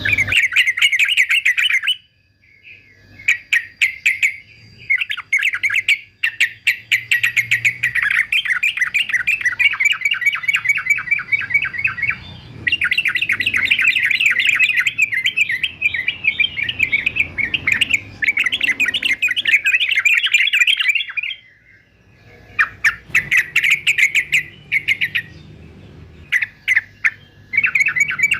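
Male yellow-vented bulbul (trucukan) singing in long runs of rapid, chattering notes, broken by short pauses, with one long unbroken run in the middle.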